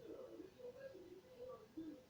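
Faint, muffled voice murmuring indistinctly, barely above room tone.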